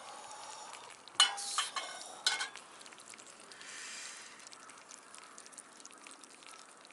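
Food sizzling and crackling in a pan, with two sharp metal clinks of a utensil or pan about a second apart, and a brief swell of hiss a little later.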